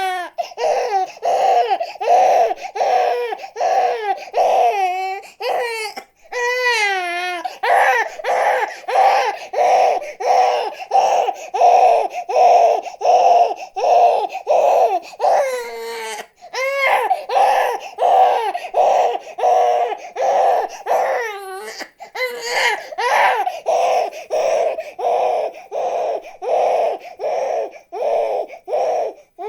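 Baby crying in rapid, stuttering sobs, about three a second, with a few short breaks for breath.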